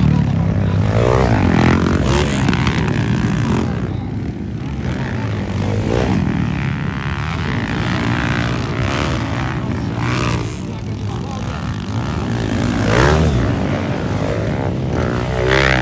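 Motocross bikes' engines revving hard and easing off as riders go past one after another, the pitch rising and falling again and again.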